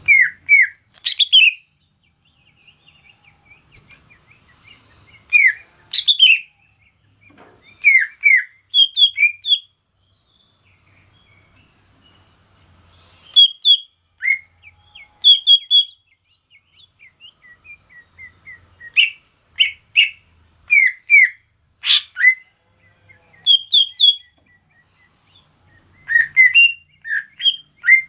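Cucak ijo (greater green leafbird) singing: short clusters of two to five sharp whistled notes that slide downward, repeated every second or two with brief pauses between phrases.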